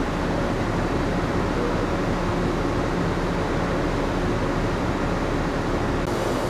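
Steady hum and hiss of a moored passenger ship's onboard machinery and ventilation, with a few low steady tones running under it. The high hiss drops a little just before the end.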